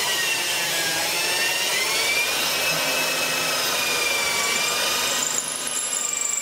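Handheld electric drill with a 6 mm bit boring a screw hole into a wooden plane body. The motor whines steadily, its pitch dipping a little about a second in and recovering as the bit works through the wood.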